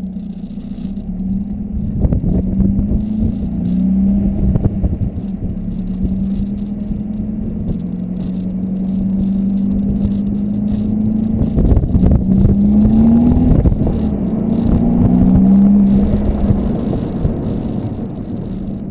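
Volkswagen Golf 2.0 TDI diesel with a Stage 2 tune and a 3-inch high-flow cat exhaust, driving. Its exhaust note climbs in pitch under acceleration and drops back several times, as with gear changes.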